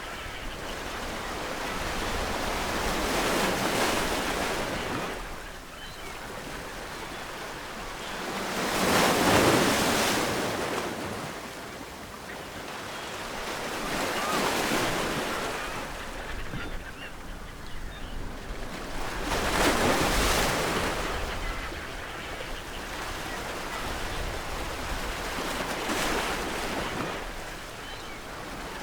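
Ocean waves breaking on a shore, a fresh wave surging in about every five to six seconds and washing back between them.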